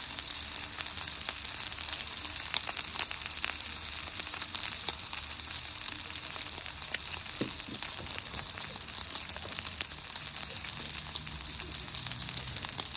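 Meat sizzling on a thick 6 mm steel griddle: a steady frying hiss dotted with small crackles and spits of fat.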